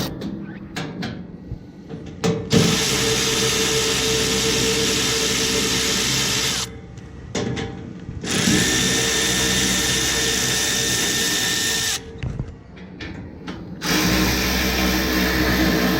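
Power drill running in long steady stretches of several seconds, stopping briefly twice in between.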